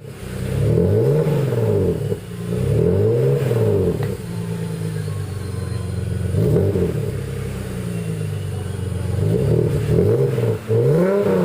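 BMW E46 325i straight-six exhaust through a dual-flow muffler and oval resonator, free-revving: two long revs, a steady idle, a short blip, more idle, then three quick throttle blips near the end.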